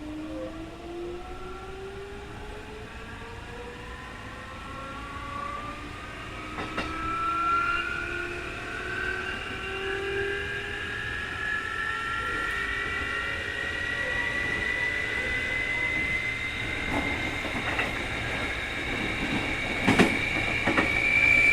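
Keikyu 2000 series field-chopper electric train accelerating: the traction motor and gear whine rises steadily in pitch throughout. This car has an unusually strong 'jet sound' whine and is known as an abnormal-noise car. A few sharp clicks of wheels over rail joints come near the end.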